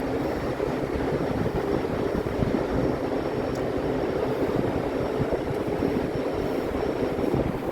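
Steady rumble and whir of a 25-ton Midea packaged air-conditioning unit running, with its fans and compressors going at an even level.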